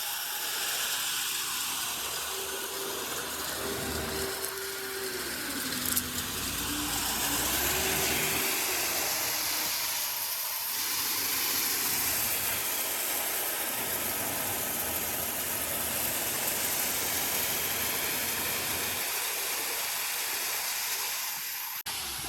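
Steady hissing machinery noise. A faint tone wavers in pitch between about two and nine seconds in, and a single click comes about six seconds in. The noise cuts off abruptly near the end.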